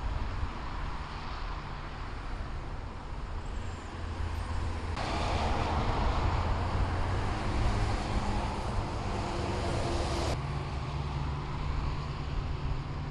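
Road traffic on a flooded, rain-soaked road: engines rumbling and tyres hissing through standing water. About five seconds in, the hiss turns abruptly louder and brighter, then drops back just as abruptly about ten seconds in.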